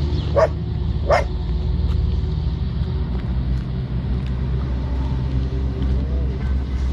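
A dog barks twice in quick succession near the start, the two short barks about two-thirds of a second apart, over a steady low rumble.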